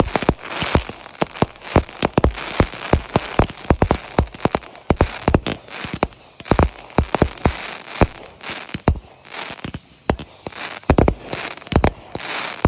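Consumer fireworks going off in rapid succession: many sharp bangs and crackling, with a string of whistling effects that each fall in pitch over about a second.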